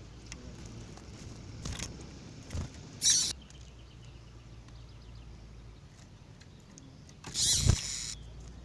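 Sounds of caged double-collared seedeaters (coleiros): a few short noisy bursts, the loudest about three seconds in and a longer one near the end, with faint brief chirps between them.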